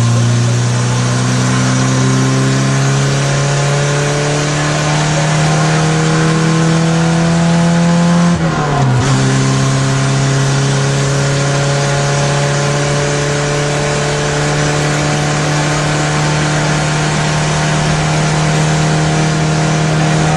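Rally car engine heard from inside the cabin under hard acceleration, its note climbing slowly through a long gear. About eight seconds in the pitch drops briefly at an upshift, then climbs steadily again.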